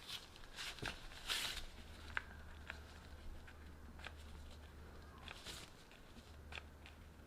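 Small hard objects being handled: scattered light clicks and rustles, with a longer rustle about a second and a half in, over a faint low steady hum.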